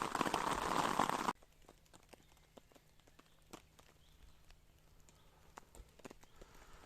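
Rain falling in a loud, steady hiss that cuts off abruptly a little over a second in. After it, quiet with scattered small clicks and knocks.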